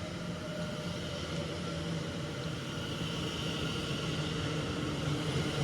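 Class 730 electric multiple unit arriving at the platform. It gives a steady electric hum and whine made of several held tones, growing slightly louder as it comes in.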